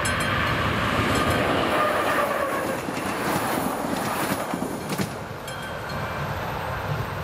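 Electric passenger train passing over a level crossing: its running note falls in pitch as it goes by, with wheels rumbling and clacking over the crossing, then dying away after about five seconds. The crossing's warning bell strokes ring through it.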